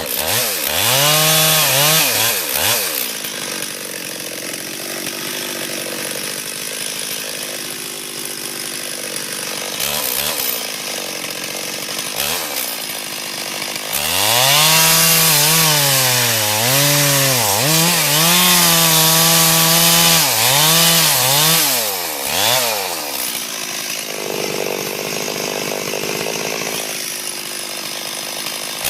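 Stihl 440 two-stroke chainsaw alternating between idle and full-throttle revs. A short burst of high revs comes near the start and a long stretch about halfway in, with the pitch dipping and recovering several times, before it drops back to idle near the end.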